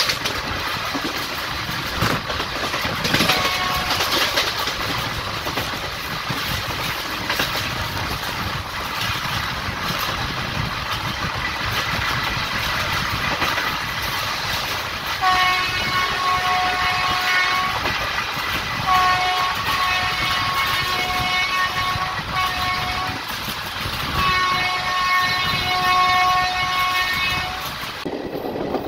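A train running on the rails with a steady rumble and clatter. About halfway through, a two-note train horn sounds in several long blasts, separated by short breaks, until near the end.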